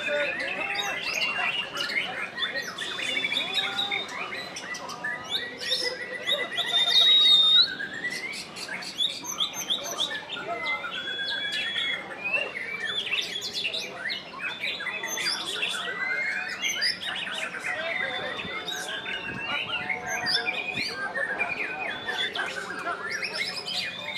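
White-rumped shama singing fast and without a break: a varied stream of whistles, trills and chirps, with a loud, clear rising whistle about seven seconds in.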